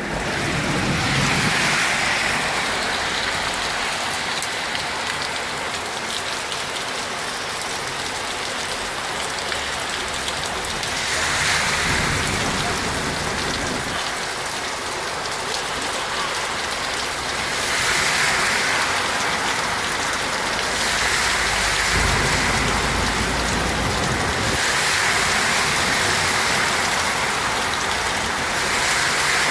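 Heavy rain pouring onto hard surfaces, a steady hiss that swells and eases every several seconds, with a brief low rumble about 22 seconds in.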